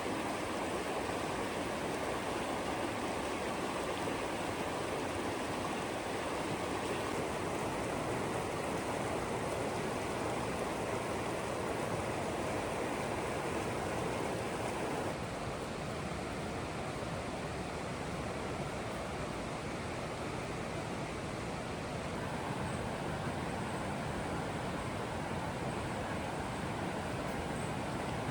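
Rushing water of a forest creek, a steady even rush that shifts and turns a little quieter about halfway through.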